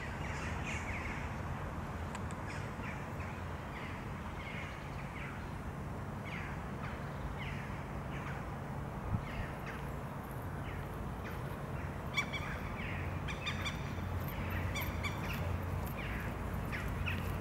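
Birds calling outdoors, short repeated calls over a steady low background rumble; from about twelve seconds in, quicker, higher chirps join.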